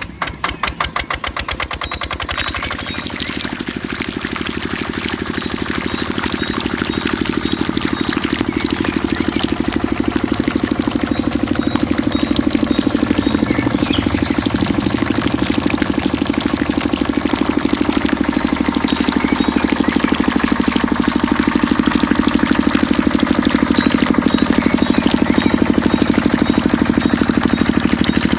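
Miniature diesel engine of a model water pump starting, its firing strokes coming quicker over the first two seconds or so, then running steadily and growing somewhat louder.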